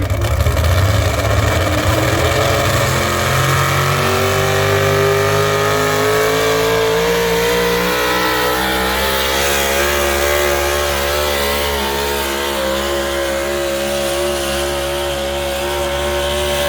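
Tractor engine under full load during a tractor pull, its revs climbing over the first several seconds and then held high and steady.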